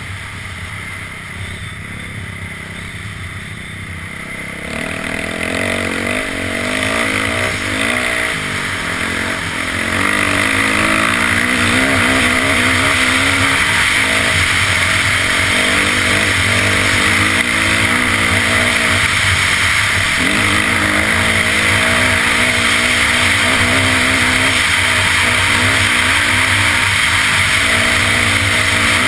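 Dirt bike engine running under way, its pitch rising and falling as the throttle is worked. It gets louder about five seconds in and again at about ten seconds, then holds loud and steady.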